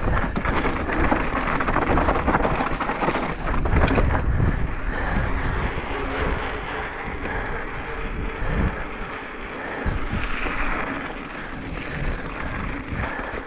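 Wind buffeting the microphone over the rattle and clatter of a mountain bike descending fast over rough ground. Loudest in the first few seconds, then easing a little.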